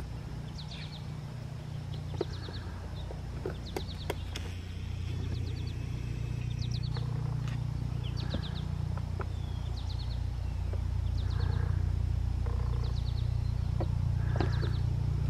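A songbird repeats a short, quick chirping trill every second or two over a steady low rumble that grows louder about five seconds in and again near eleven seconds. A few sharp ticks come in the first four seconds.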